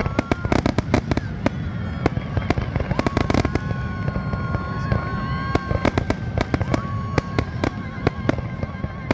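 Fireworks display: a rapid, irregular series of sharp bangs and crackles from bursting aerial shells over a continuous low rumble, with a steady high whistling tone for a couple of seconds in the middle.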